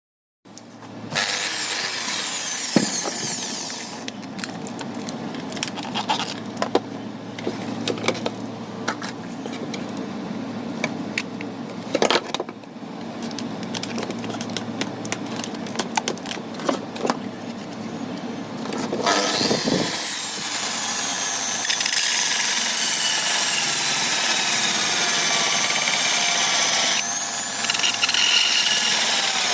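Irregular clicks and scraping of hand work with tools, then a small power tool running steadily from about 19 seconds, its pitch drifting up and down.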